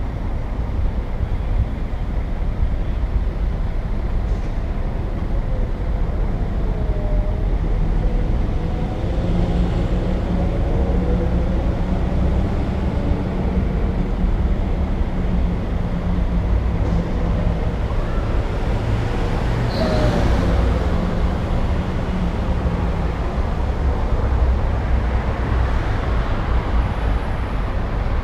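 City street traffic: a steady rumble of passing cars and buses, with one heavier engine humming steadily through the middle stretch.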